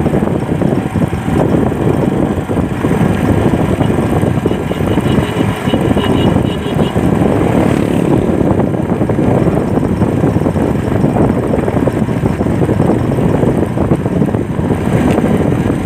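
Steady rush of wind and road noise from a moving motorcycle, with the engine running underneath.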